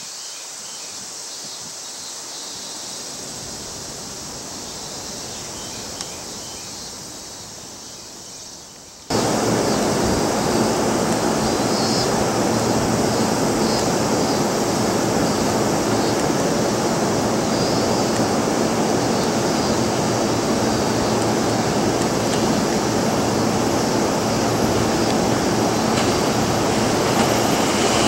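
Faint outdoor ambience with insects. About nine seconds in it cuts abruptly to a loud, steady hum of an electric commuter train standing at the platform, its equipment running. Near the end an approaching express train begins to be heard.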